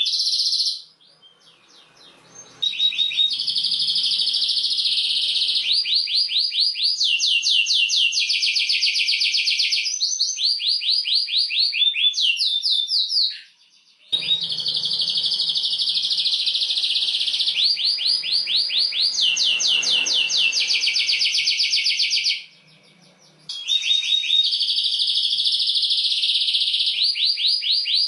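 Domestic canary singing a long, rolling song of rapid trills: each run of fast repeated notes lasts a second or two before switching to another, with short breaks about a second in, near the middle and about three-quarters through.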